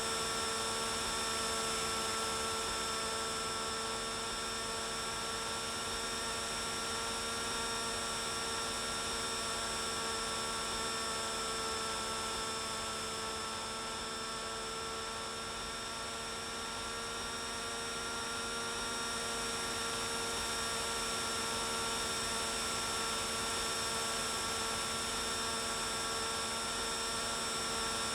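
Small RC helicopter's electric motor and rotor running at a steady speed, a constant high-pitched whine that fades slightly about halfway through and comes back.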